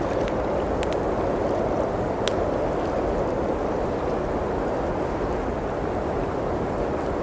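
Steady blizzard wind noise with the sparse pops and crackles of a wood fire; the sharpest pop comes a little over two seconds in.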